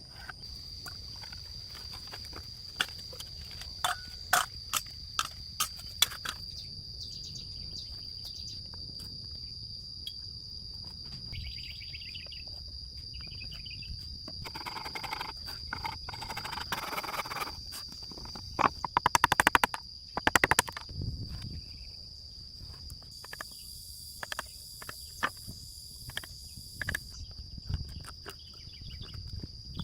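Scattered sharp knocks and clicks of work by hand outdoors, with a scraping, rustling stretch about halfway and a quick run of clicks just after. Under it runs a steady high-pitched insect drone.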